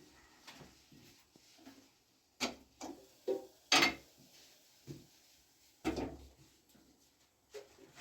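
A series of separate knocks and scrapes, as of objects being handled, with quieter rubbing between; the loudest knock comes about four seconds in.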